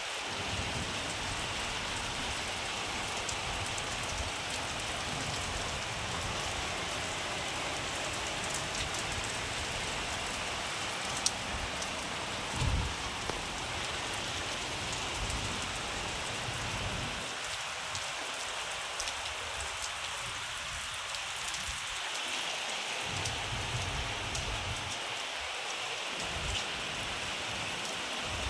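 Steady rain falling on a flat concrete rooftop, with scattered sharp drop clicks and one brief low thump about halfway through.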